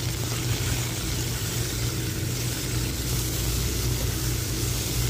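Sliced onions and garlic sizzling steadily in hot oil in a steel pot that the cook says is very hot, over a steady low hum.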